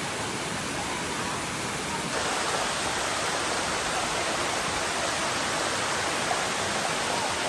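Waterfall, rushing water as a steady hiss, growing a little louder about two seconds in.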